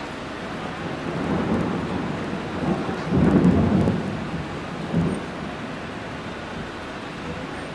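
Steady rain during a storm, with a low rumble of thunder that swells to its loudest about three seconds in and dies away, and a short low thump about five seconds in.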